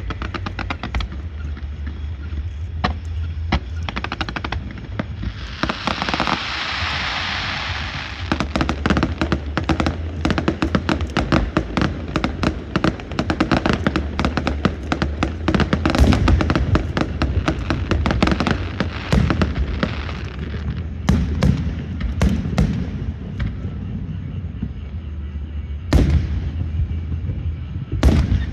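Firecrackers and fireworks going off: long runs of rapid crackling pops with louder single bangs among them, and a hissing whoosh about six seconds in, over a steady low rumble.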